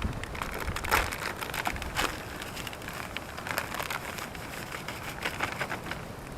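Dry fishing groundbait being mixed, with irregular crunching and rustling and a couple of louder scrapes about one and two seconds in.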